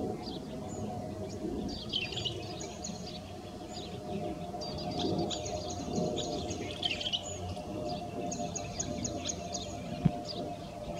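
Birds chirping, with quick runs of high, evenly spaced notes about two, five and nine seconds in, over a steady low hum.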